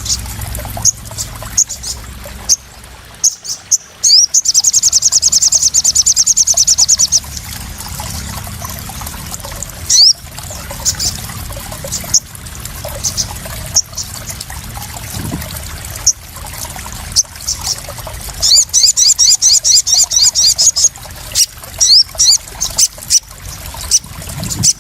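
Crimson sunbird (sogon) calling: two long, fast, high trills, one about 4 seconds in and one near 19 seconds, with short sharp chirps between them. Under it runs trickling, splashing water, a lure and calming sound for a caged sunbird.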